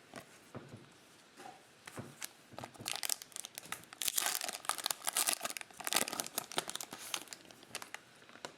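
Foil trading-card pack wrapper being torn open and crinkled by hand: a run of dense, papery crackles that builds up a few seconds in.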